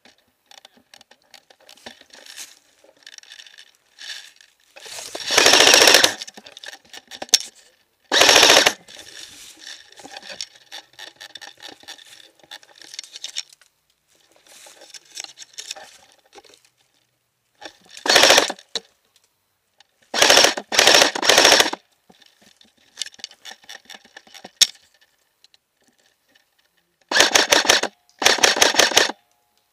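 Airsoft rifle firing in full-auto bursts, each a rapid rattle of shots: a longer burst, several short ones, a quick run of three, and a pair near the end. Fainter, patchy airsoft fire from other players sounds between the bursts.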